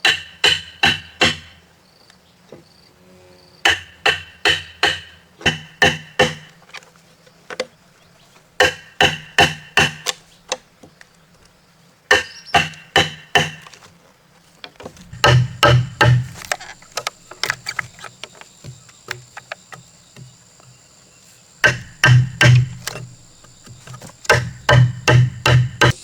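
Timber being struck with a hand tool in quick bursts of four to six blows, about three blows a second, each blow with a short ringing tone. A steady high insect buzz joins about halfway through.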